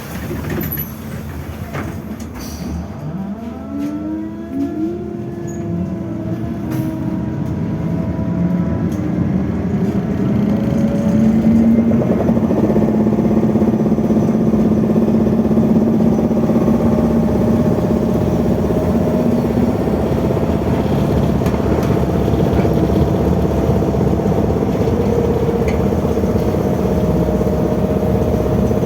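BKM 32102 trolleybus heard from inside the cabin as it pulls away from a stop. The electric traction drive's whine rises in several pitches while it accelerates, then settles into a steady hum over road rumble and body rattle as it runs at speed, with a few knocks near the start.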